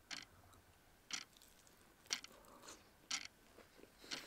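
Close-up chewing of fried breadcrumbed chicken katsu, with a short crisp crunch about once a second.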